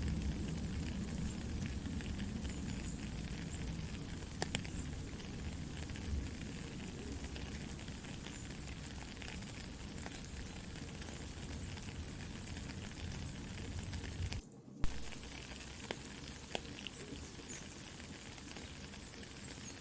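Soft rain falling steadily with a crackling campfire: a continuous hiss scattered with small pops. About two-thirds of the way through the sound cuts out for a moment, then comes back with a sharp pop.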